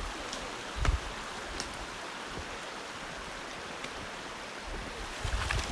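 Steady rush of a rocky mountain river's water. A low thump comes about a second in, and low rumbling near the end.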